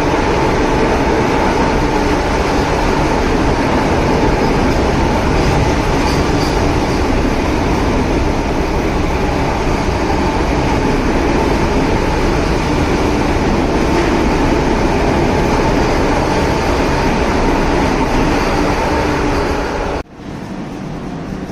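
A train running steadily, a dense rumbling noise with a steady whine on top; about twenty seconds in the sound drops suddenly to a quieter level.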